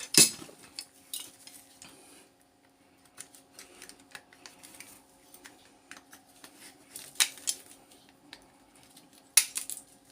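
Scattered light clicks and metallic clinks as a power adapter's small transformer is broken open and its metal pieces are handled, with a few sharper clinks near the start, about seven seconds in and near the end.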